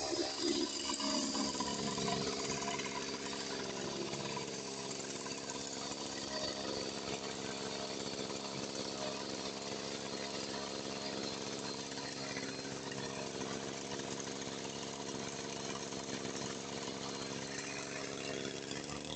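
Small brush cutter engine idling steadily, its pitch wavering slightly over the first few seconds before settling.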